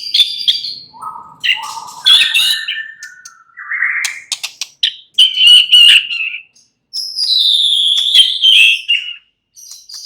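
White-rumped shama singing a varied song of clear whistled phrases, with rising and falling glides and sharp clicking notes, broken by short pauses.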